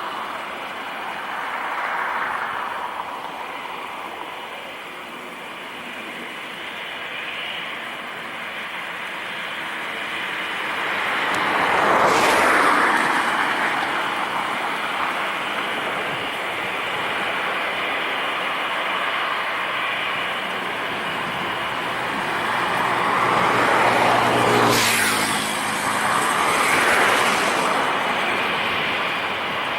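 Steady engine noise with two vehicles passing close, about 12 and 25 seconds in, each swelling and then fading.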